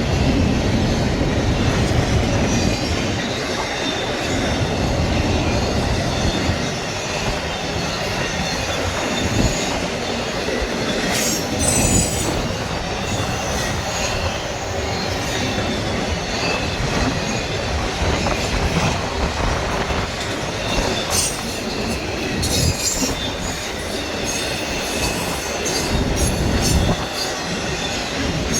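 Freight train rolling past steadily, with short high-pitched wheel squeals about eleven seconds in and again a little past twenty seconds.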